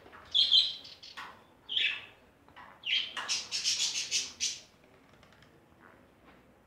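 Birds chirping and squawking in three short bursts, the last and longest about three seconds in.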